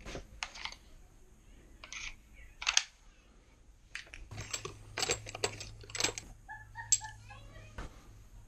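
A string of about nine sharp, irregularly spaced cracks, the sound of an airsoft gun being fired, with a low hum under the middle of the string.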